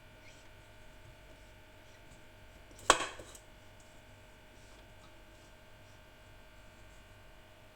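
Quiet kitchen room tone broken by one sharp knock about three seconds in, with a few lighter clicks right after it, like something set down on a hard counter.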